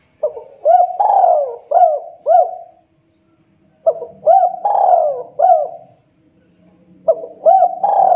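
Spotted dove (tekukur) cooing: three loud phrases of rolling coos, each about two and a half seconds long, with short pauses between them.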